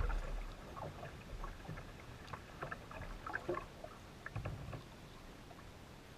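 Paddling a composite hunting kayak through shallow water: scattered small splashes and drips from the paddle, with a low thump at the start and another about four and a half seconds in.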